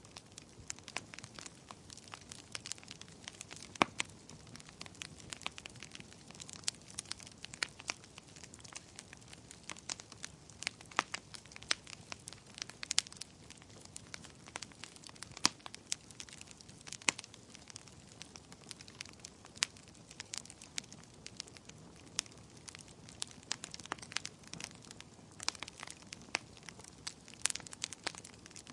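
Bonfire of burning wood crackling, with frequent irregular sharp pops and snaps over a soft, steady rush of flame.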